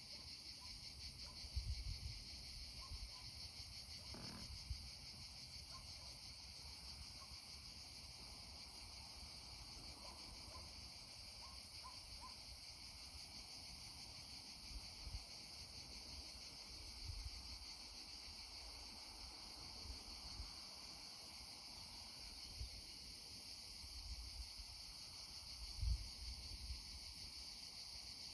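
A steady, high-pitched chorus of crickets or other insects, faint, with a few short chirps mixed in and irregular low thumps and rumbles, the loudest about a second and a half in and near the end.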